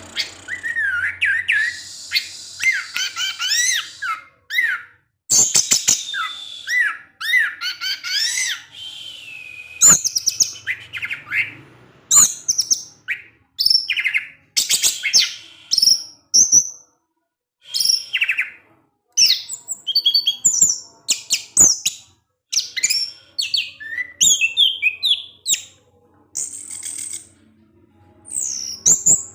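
Orange-headed thrush (anis merah) singing a fast, varied 'ngecis' teler song: runs of quick high chirps and twittering whistles that sweep up and down, broken by short pauses.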